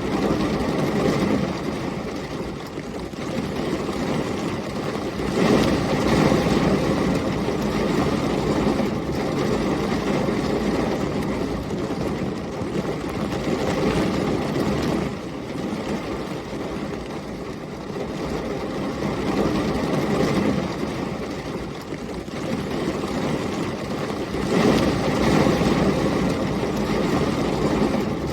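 Heavy rain with storm wind, a dense steady hiss under a deeper rumbling surge that swells and eases every several seconds, loudest about five seconds in and again near the end.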